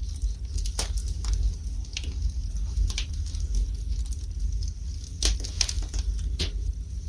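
Wood fire burning in a fireplace: irregular sharp crackles and pops, several close together about five seconds in, over a steady low rumble.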